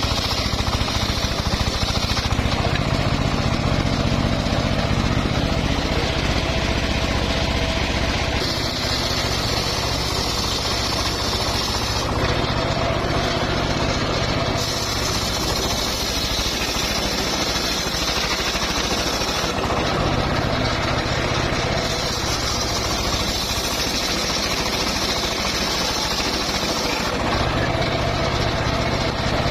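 Engine-driven homemade circular sawmill running while sawing mahogany, a steady loud machine sound. A higher sound comes and goes every few seconds over the low running of the machine.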